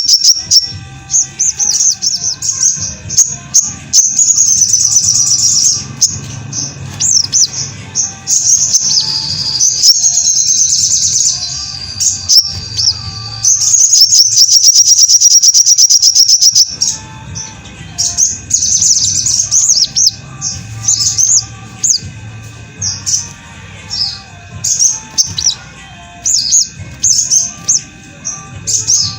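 Sogon (sogok ontong) bird singing in a masteran recording: high, fast chirps and long rapid trills, broken by short pauses.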